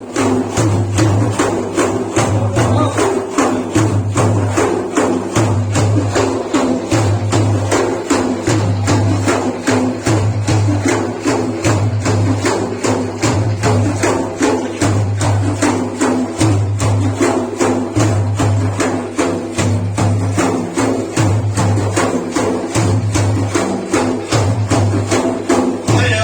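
Frame drums with jingles beaten together in a steady, fast rhythm, about two to three strokes a second, with deeper strokes falling in a repeating pattern about once a second.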